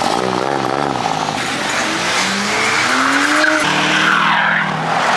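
A vehicle doing a burnout: the engine revs up in a long rising pitch and then holds while the tires squeal and spin.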